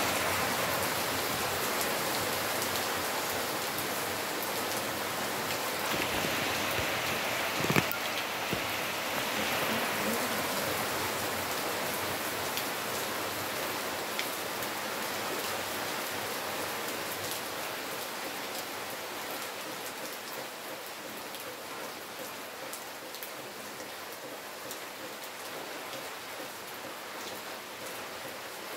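Heavy rain falling steadily and gradually easing off, with one sharp knock about eight seconds in.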